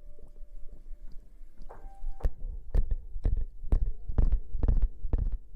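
ASMR hair-washing and rustling sounds made close on the microphone: fingers rubbing and scrubbing, giving irregular soft thumps and clicks that grow busier about two seconds in.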